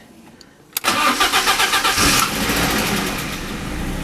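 BMW E36 318is 1.8-litre four-cylinder engine cold-started: the starter cranks in quick, even beats for about a second, then the engine catches and runs at a fast cold idle. The start follows a repair of a cracked intake rubber boot that let in air behind the air mass meter and caused rough idling.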